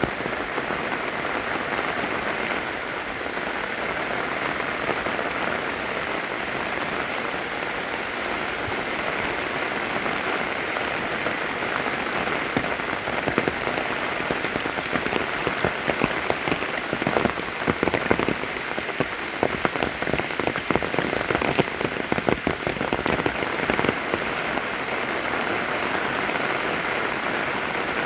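Steady rain, with a dense patter of separate drops ticking through the hiss. The patter grows busier for a while in the middle.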